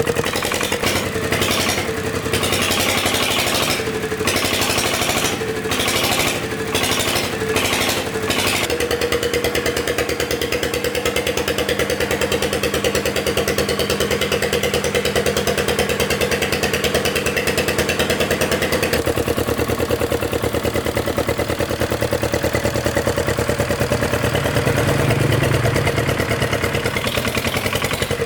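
Engine of a restored old farm vehicle running, choppy with several brief breaks in the first eight seconds, then running steadily; its note changes about nineteen seconds in.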